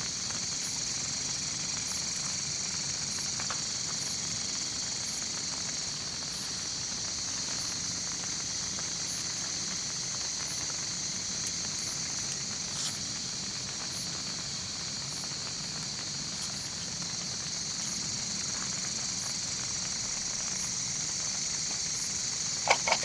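Steady chorus of night insects, with a faint high chirp repeating about every 0.7 s over it.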